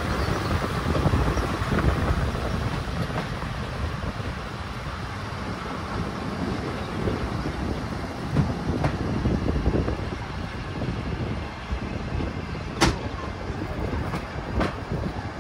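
Low, steady rumble of a train on the move, with a few sharp clicks in the last few seconds.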